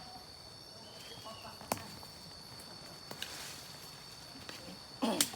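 A steady, high-pitched insect chorus such as crickets or cicadas, with a few sharp clicks and a brief voice near the end.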